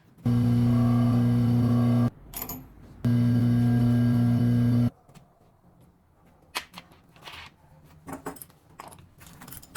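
Washing-machine electric motor running in two short spells of about two seconds each, a steady low hum that starts and stops abruptly. After that come a few light clicks and knocks.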